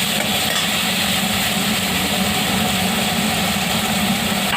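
Chicken mince and onion frying in oil in a kadai: a steady sizzling hiss over a constant low hum.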